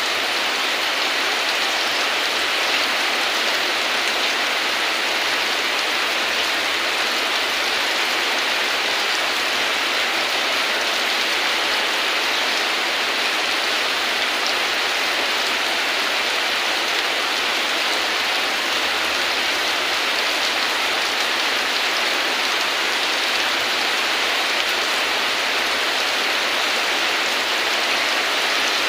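Heavy rain falling steadily, an even hiss of rain with no pauses or thunder.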